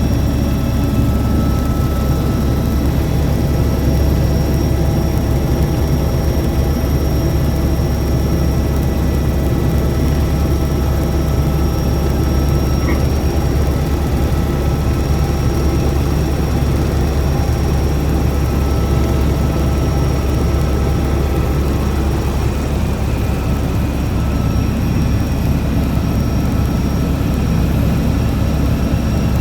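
Helicopter engine and rotor running, a loud, steady, deep drone.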